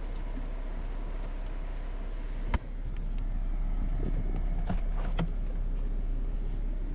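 Jeep engine running with a steady low rumble. A sharp click comes about two and a half seconds in, after which the rumble is a little louder, and a couple of lighter clicks follow later.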